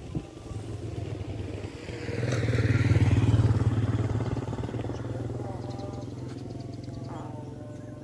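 A small engine passes by, growing louder to a peak about three seconds in and then slowly fading.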